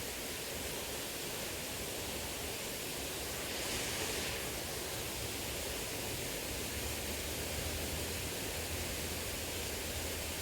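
Small river flowing: a steady rush of running water, with a brief louder hiss about four seconds in.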